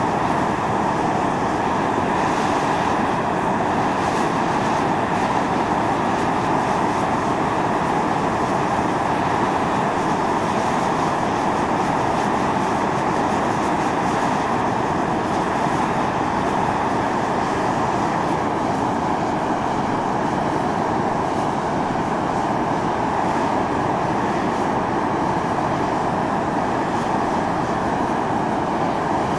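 Volcanic fumarole venting steam, a steady loud hiss and roar of gas rushing from the vent, strongest in the middle range and without a break.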